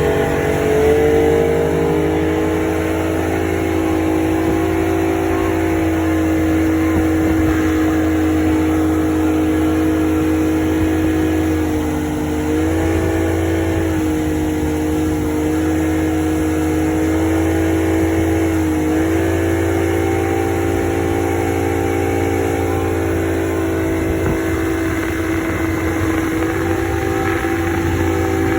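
Engine of the tow boat pulling a banana boat, running steadily at speed, with two brief dips in pitch as the throttle eases and picks up again.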